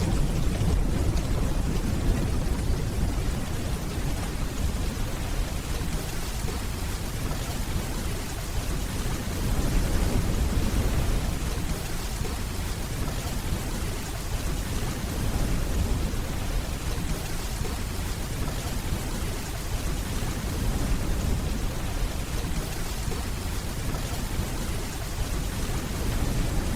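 Steady heavy rainfall with a low rumble of distant thunder underneath, swelling a little about ten seconds in.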